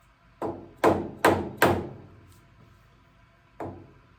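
Hammer striking a socket that is driving a new seal into the top of a tractor steering cylinder. Four sharp metallic blows come about half a second apart, then one more near the end, each ringing briefly.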